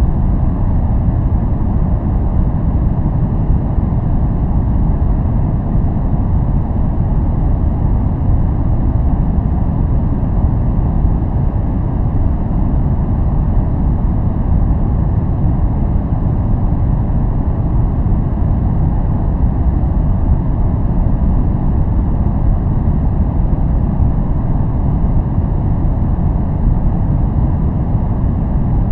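Steady, unchanging noise played as a white-noise focusing track, weighted heavily toward the low end: a deep, even rush with little treble and no hiss on top.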